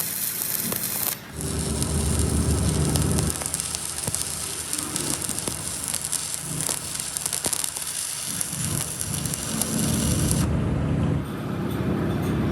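Electric arc welding on steel: a steady crackle and sizzle, with a lower machine hum underneath that fades out a few seconds in and comes back later.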